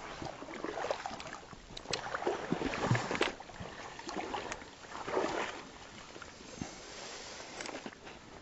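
Water swishing and knocking around a fishing kayak in several uneven swells, each under a second long, with scattered sharp clicks; it is calmer near the end.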